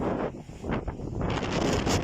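Strong storm wind gusting and buffeting the microphone, swelling again after a brief lull about halfway through.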